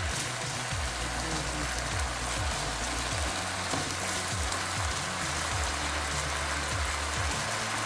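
Pork and chicken adobo sizzling steadily in a wok as its sauce cooks down, under background music with a deep, repeating bass beat.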